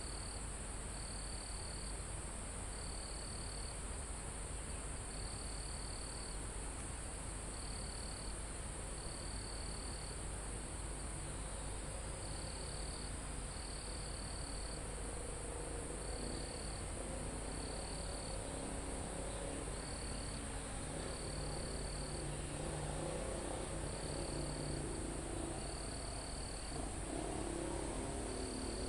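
Crickets and other insects: a steady high-pitched insect chorus, with a cricket trilling in short chirps about every one to two seconds.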